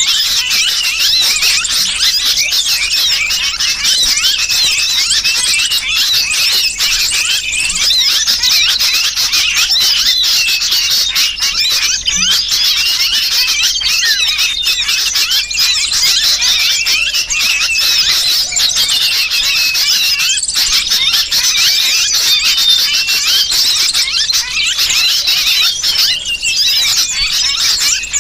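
Bird-lure recording: a dense, unbroken chorus of many small birds' rapid high chirps and alarm calls, mixed with the distress calls of a trapped sooty-headed bulbul.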